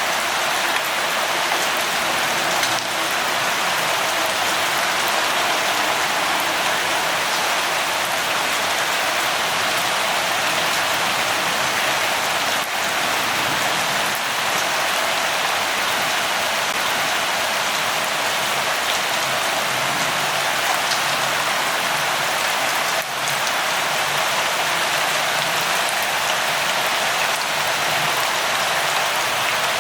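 Steady light rainfall, an even hiss of drops pattering on a surface.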